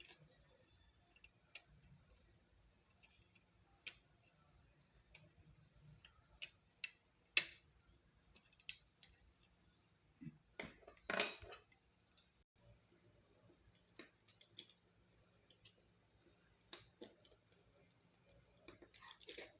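Scattered light clicks and taps of small plastic and metal parts being handled on a laptop DVD drive, with a sharp click about seven seconds in and a short clatter around eleven seconds.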